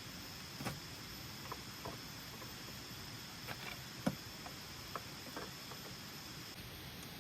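A few sparse, irregular knocks and clicks, the loudest about four seconds in, over a steady hiss and a thin high steady tone that stops near the end.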